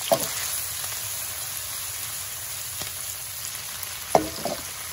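Bell peppers and green peas sizzling in hot oil in a wok, a steady hiss. There is a short knock at the very start and a louder one about four seconds in.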